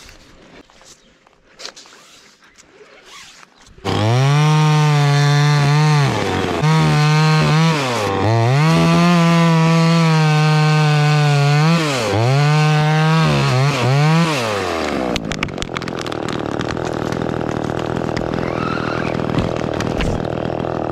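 Gas chainsaw starting about four seconds in and running at high revs through a cut, the revs dipping briefly several times, until it drops away about fifteen seconds in. A lower, steady engine sound follows to the end.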